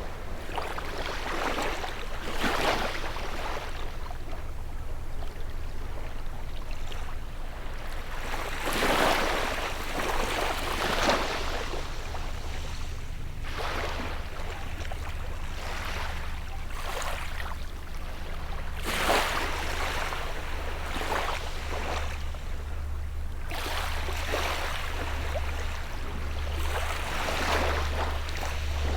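Small sea waves washing up on a shore, each wave a short swell of surf every two to three seconds, over a steady low hum.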